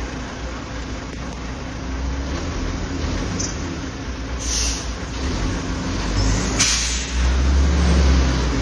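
FAW truck's diesel engine rumbling under load as it pulls uphill through a bend, with two short bursts of air-brake hiss about halfway through and the rumble growing louder near the end.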